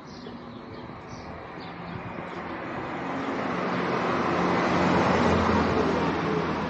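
A motor vehicle driving past close by, its engine and tyre noise growing steadily louder to a peak about five seconds in, then easing slightly.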